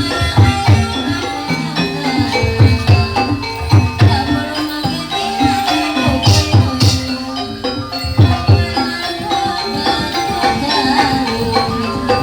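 Live gamelan music for a kuda lumping horse dance: groups of deep hand-drum strokes from the kendang come back every second or two over bronze metallophones ringing steady notes.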